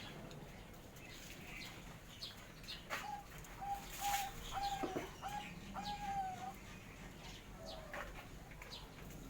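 Zebra doves (perkutut) cooing: a run of short, clear notes at one pitch about three seconds in, ending in a longer drawn note, and another falling note near the end, with faint chirps and a few light knocks behind.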